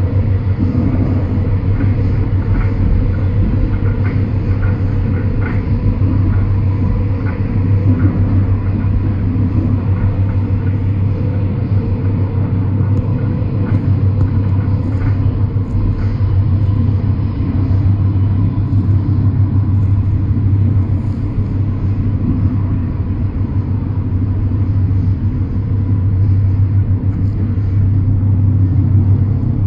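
Steady rumble of a moving passenger train heard from inside the carriage.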